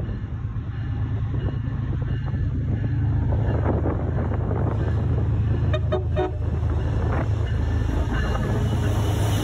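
Train running through the station with a steady, loud low rumble.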